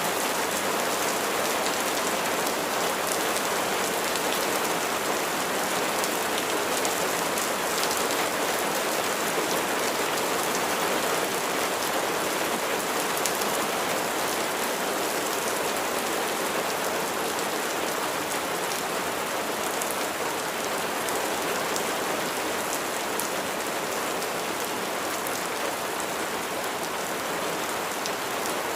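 Steady rain falling, a dense even hiss of drops with fine ticks of individual raindrops throughout.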